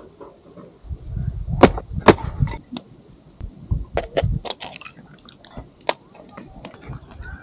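Crisp fried bread pakoda crunching as it is broken and bitten: sharp cracks over low thumps, in two bursts with scattered crackles after.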